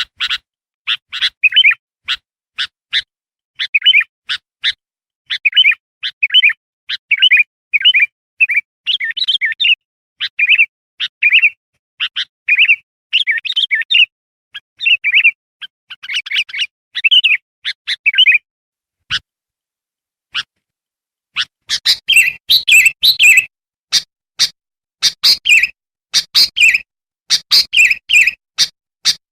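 Bulbul (kutilang) chirping in quick runs of short, clear notes. About two-thirds of the way through it pauses for roughly three seconds, then resumes with busier, louder calling.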